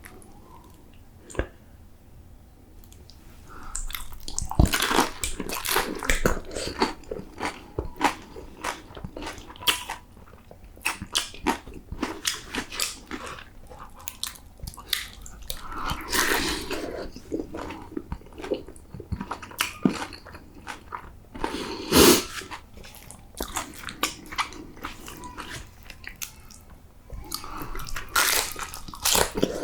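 Close-miked biting and chewing of crisp fried taquitos: repeated crunchy bites and crackling chews, with the sharpest snap of a bite about two-thirds of the way through. It is quiet for the first few seconds before the crunching starts.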